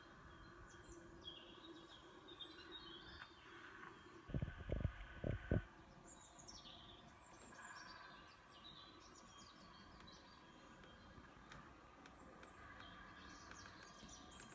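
Faint bird chirps and calls over a low steady hum, with a quick cluster of four or five dull thumps about four to five seconds in.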